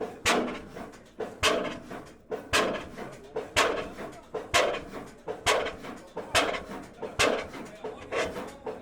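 Old stationary engine running slowly, firing with a sharp bang about once a second, each bang followed by a brief ringing. The beats come a little faster toward the end.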